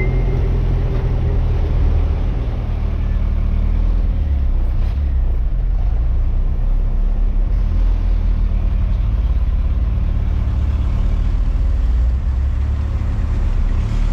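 Truck engine running with road noise while driving: a steady low rumble with no clear change.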